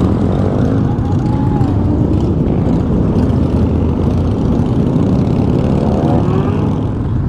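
Motorcycle riding: an engine runs under a heavy, steady wind rumble on the microphone. Its pitch dips briefly about a second in and rises near the end as the bike speeds up.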